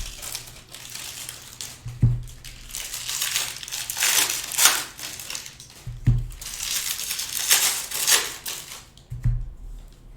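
Trading-card pack wrappers crinkling and cards being handled, as packs are torn open and sorted. Dull thumps come about every few seconds.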